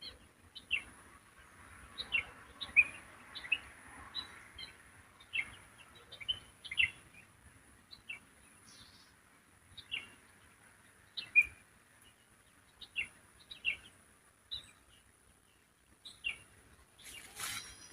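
Wild songbirds chirping: many short, high, downward-sliding notes in an irregular series, over a faint steady high whine. Near the end a louder, harsh call with several stacked tones breaks in.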